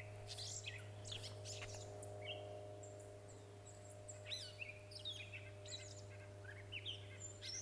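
Wild birds chirping and calling, many short high notes and quick falling whistles overlapping, over a steady low hum.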